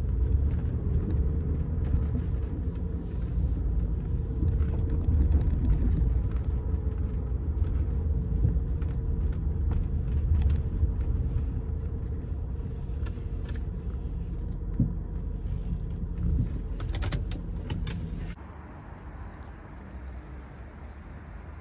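Rolls-Royce Silver Spirit III's V8 running at low speed, a steady low rumble with a light hum, heard from inside the car; a few light clicks come near the end, and then the engine sound drops away sharply.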